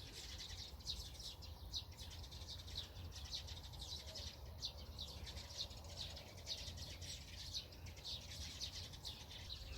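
Small songbirds chirping and twittering, with many quick, high notes repeating throughout, over a low rumble of wind.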